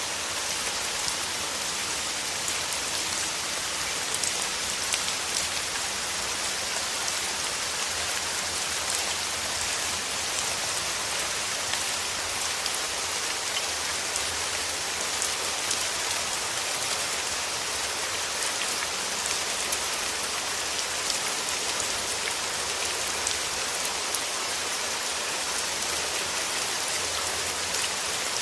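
Steady rain: a dense, even hiss of falling water, dotted with many fine drop ticks.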